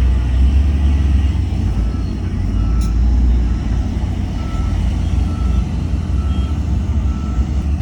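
Heavy diesel earthmoving machine running with a deep rumble while its reversing alarm beeps at a steady pace, about three beeps every two seconds. There is a single sharp click about three seconds in.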